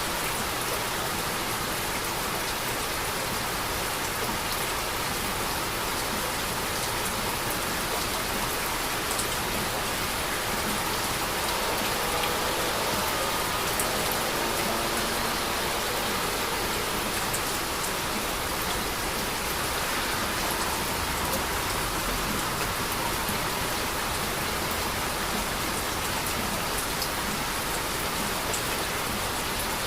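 Steady rain falling on a hard surface: a dense, even hiss with the ticking of individual drops, unbroken throughout.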